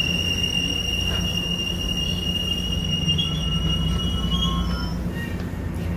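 MARC commuter train rolling into the station with a steady high-pitched squeal over a low rumble; the squeal fades out near the end.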